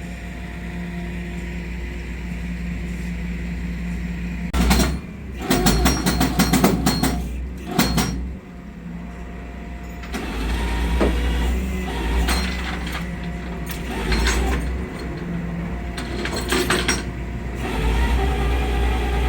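Flatbed tow truck's engine running steadily, with two bursts of metallic clanking and rattling as the car is loaded and secured.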